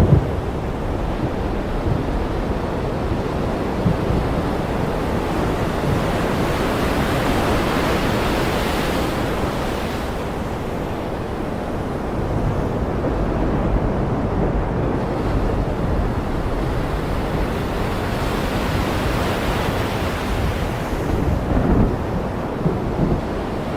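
Ocean waves breaking and washing in over a steady rush of wind. The surf swells up about a third of the way in and again near the end.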